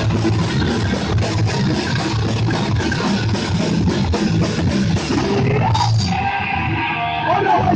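Live hardcore punk band playing loud and fast, with distorted electric guitars and drum kit. About five and a half seconds in the full band drops away, leaving held, wavering tones for the last couple of seconds.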